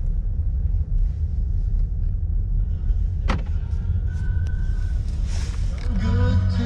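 Steady low rumble of a car on the move, heard inside the cabin, with a single sharp click a little over three seconds in.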